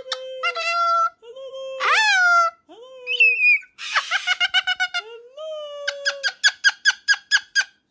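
Pet parrot calling in a string of squeaky, whistly notes, several sliding upward in pitch, ending in a fast run of about six repeated chirps a second.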